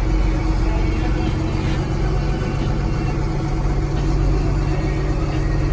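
Vehicle engine idling steadily: an even, low hum with no revving.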